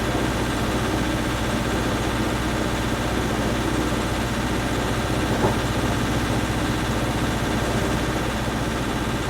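Engine idling steadily with an even low hum, and one brief tick about five and a half seconds in.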